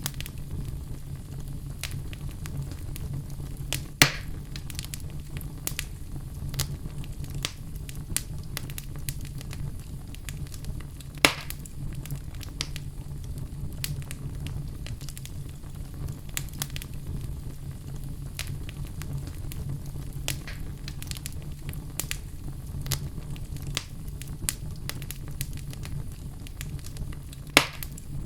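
Crackling fire: a steady low rumble of burning with frequent small crackles and a few louder pops, about 4, 11 and 27 seconds in.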